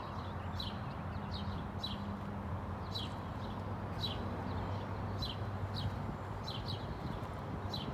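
A songbird calling repeatedly with short, high chirps that sweep downward, roughly one or two a second, over a low steady hum.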